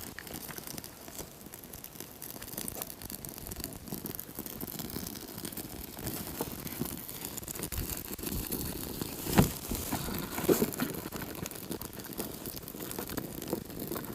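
Dry birch bark and small twigs crinkling and rustling as they are handled and torn for tinder, with a sharp crack about nine seconds in.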